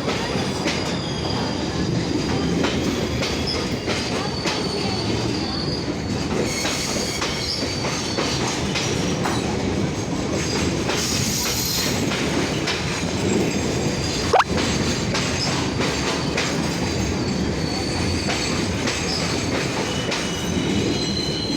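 Freight train's wagons rolling past: a steady rumble of the wheels, with clatter over the rail joints and a high wheel squeal that comes and goes. A single sharp knock about two-thirds of the way through.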